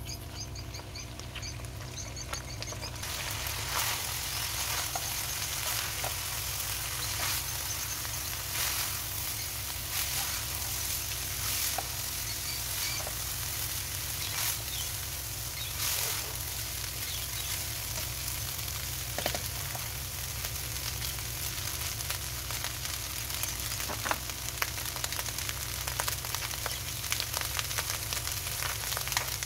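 Chicken, vegetables and rice sizzling in a hot wok as they are stir-fried, the sizzle swelling about three seconds in, with scattered clicks and scrapes of stirring.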